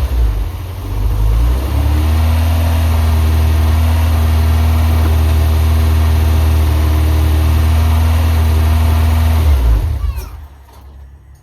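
Honda Civic EK4's B16A four-cylinder engine running. It is revved, then held at steady revs for several seconds, and it drops away sharply about ten seconds in.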